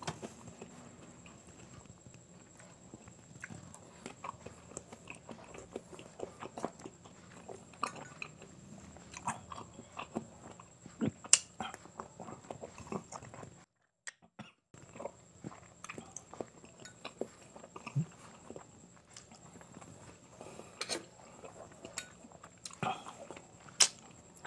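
Close-up chewing and mouth sounds of someone eating boiled quail balut, with sharp clicks of a metal spoon scooping the eggs. The sound cuts to silence for about a second halfway through.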